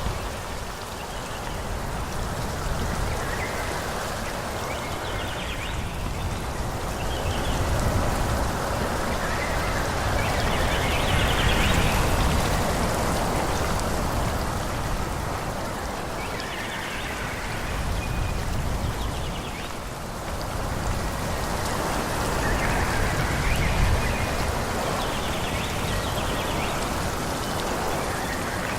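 Wind blowing through forest trees, a steady rushing that swells and eases in gusts every few seconds.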